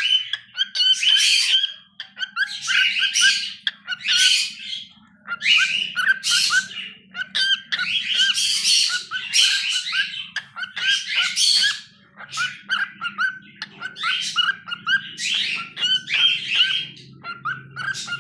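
Cockatiel singing: rapid chattering chirps and whistles in repeated phrases of a second or two, one phrase after another.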